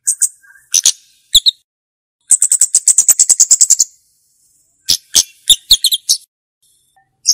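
Flowerpecker calling: scattered sharp, high chip notes, then a rapid run of dry ticks at about ten a second for a second and a half, then more single chips.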